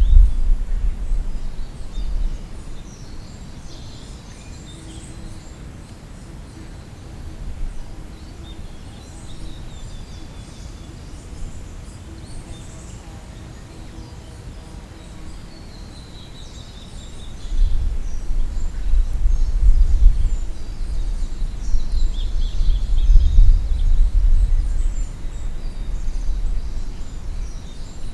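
Wild birds singing and calling in a forest: scattered high chirps and a few quick descending series of notes. Underneath is a low rumble that swells for several seconds about two thirds of the way through.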